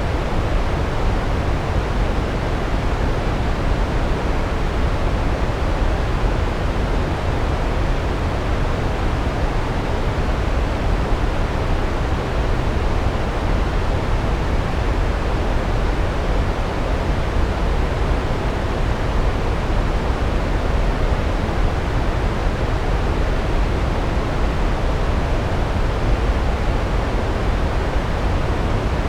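Large waterfall: water pouring down onto rocks in a steady, unbroken rush, heaviest in the deep low end.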